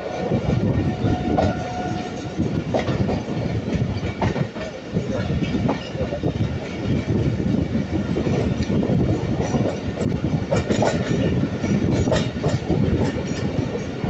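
Pakistan Railways passenger train running on the track, heard from an open coach doorway: a continuous rumble and rattle of the carriage, with the wheels clattering irregularly over rail joints. A short steady tone sounds about a second in.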